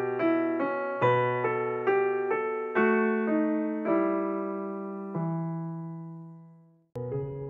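Background solo piano music: a melody of struck, decaying notes that slows into a long low note fading away. Near the end there is a click and the music starts again.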